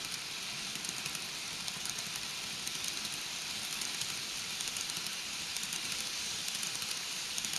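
N-gauge model train running along the track: a steady rattling hiss made of many fine clicks from the wheels and small motor.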